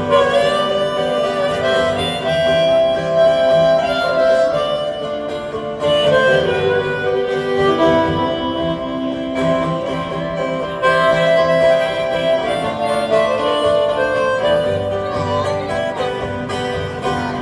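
Live folk-country music: a harmonica solo over strummed acoustic guitar and band, played in the instrumental break of the song.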